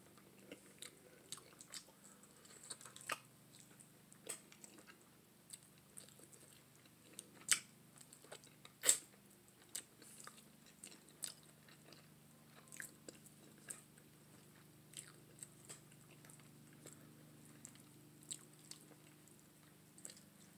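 Close-up eating sounds from someone chewing curried neck bones and picking the meat off by hand: soft chewing with scattered wet smacks and clicks, a few louder ones around the middle.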